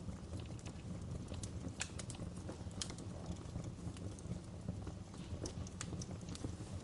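Wood fire crackling in a fireplace: a steady low rumble of the flames with irregular sharp pops and snaps from the burning logs.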